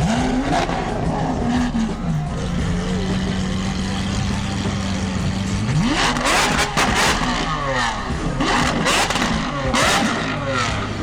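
Lamborghini Aventador SVJ's V12 with an aftermarket exhaust idling, blipped briefly at the start, then revved hard about six seconds in. The revs fall away in sweeps with sharp cracks and pops, and there is another rev with pops near the end.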